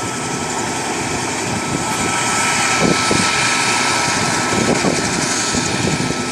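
Helicopter engine and rotor running close by: a loud, steady rushing noise with a faint constant whine.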